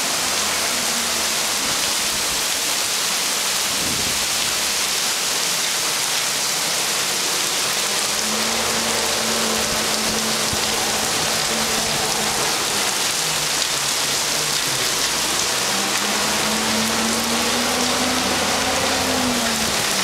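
Heavy rain squall pouring down steadily: a dense, even hiss of rain on the street and foliage. A truck engine hums faintly at times, a garbage truck coming up the street near the end.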